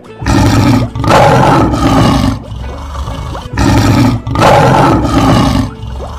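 Lion roar sound effect, heard twice, each roar lasting about two seconds.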